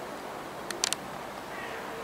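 Steady background noise from the approaching train and open air, with a quick cluster of three short, sharp, high clicks just under a second in.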